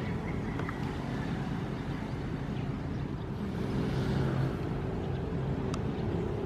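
Ocean surf with a steady low rumble; a wave swells and washes through a little past the middle, with a couple of faint clicks near the end.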